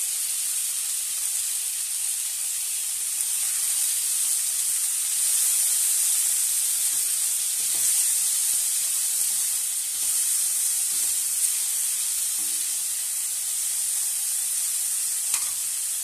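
Oil sizzling steadily in a stainless steel kadai as chopped tomatoes, coriander and green chillies fry, with a few light scrapes and clicks of a steel slotted spatula stirring them.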